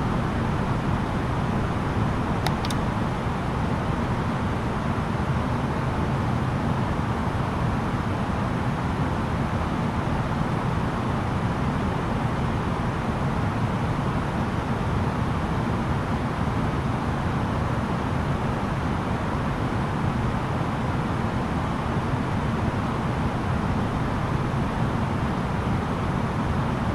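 Steady cabin noise inside an Airbus A330-900neo airliner: the even rush of its Rolls-Royce Trent 7000 engines and airflow, strongest in the low range. A short, faint high-pitched tone sounds about two and a half seconds in.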